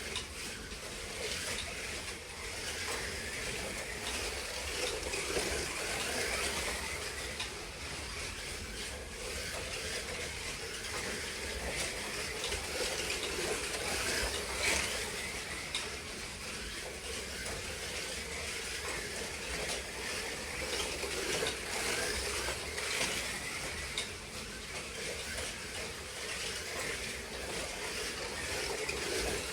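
Slot cars lapping the track: a steady whir of small electric motors and gears, with faint scattered clicks.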